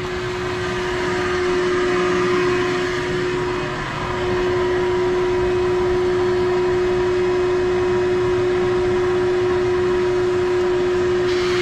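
Electric vacuum running steadily with a constant motor hum and whine, pulling suction through a tube pushed down a car's dipstick tube to draw out the engine oil. The hum dips briefly about four seconds in, then carries on.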